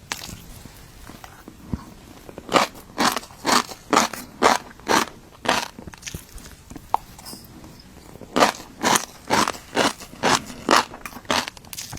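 Close-miked chewing of fish roe: crisp crunching bites at about two a second, in two runs with a short lull between.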